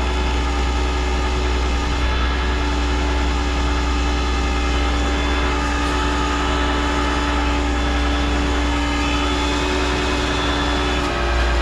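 Flatbed tow truck's engine and hydraulic winch running steadily with a whine, pulling a heavy car up onto the bed. The whine cuts off about eleven seconds in as the winch stops.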